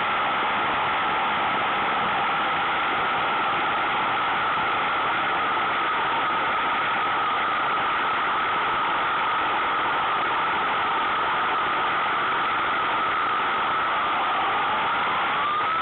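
Suzuki Bandit 1200's inline-four engine running steadily under a constant rushing noise, its pitch rising near the end as the bike speeds up.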